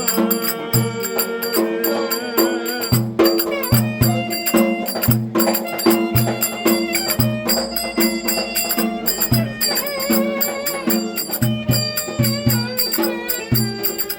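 Turkish folk dance music (oyun havası): a wavering melody line over a steady low drum beat and rattling percussion.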